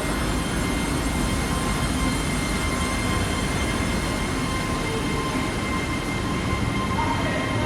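A train running at a station platform: a steady rumble with a thin, steady high tone over it.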